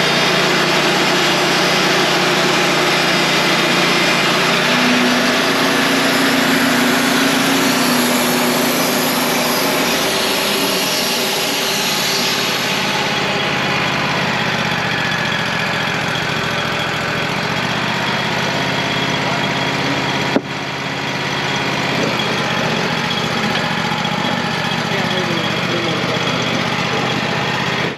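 Wood-Mizer portable band sawmill running on its gas engine while the blade cuts a thin quarter-inch slab off a log to square it. Steady, loud engine and saw noise, with a sharp click about twenty seconds in.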